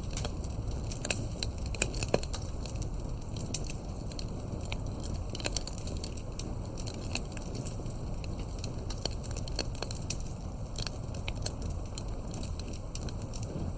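Wood fire burning with frequent sharp, irregular crackles and pops over a steady low rumble of the flames.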